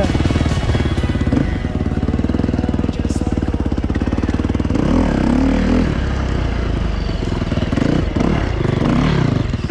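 Enduro motorcycle engine running close up, its revs rising and falling a few times.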